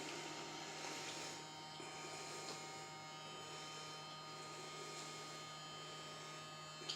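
A steady electric motor hum with several faint high whines over it, ending with a short click.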